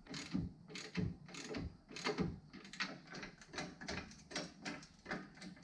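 Irregular clicks and clunks of hand tools and metal suspension hardware being handled, a few knocks a second.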